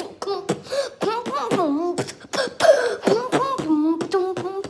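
Vocal beatboxing: sharp mouth-percussion clicks and snares in quick succession over a hummed, gliding bass line.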